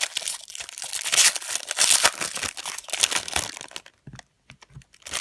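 Trading card pack wrapper crinkling and crackling as it is torn open and handled. The crinkling stops about four seconds in, leaving a few soft taps.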